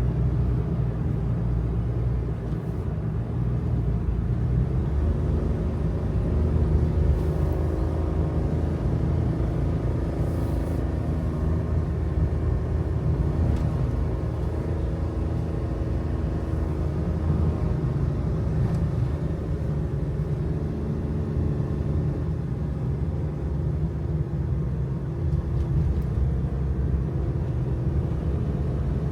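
Kei truck driving along a mountain road, heard from the cab: a steady low engine drone whose pitch drifts slowly, over road rumble.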